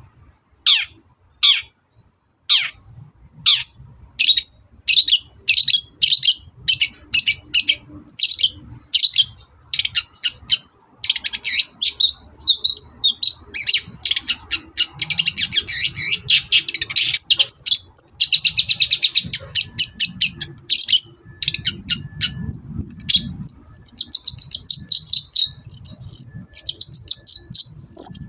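Long-tailed shrike (cendet) singing loudly. It starts with a run of repeated downward-sweeping calls, about two a second, then breaks into a fast, dense chattering song with rapid trills.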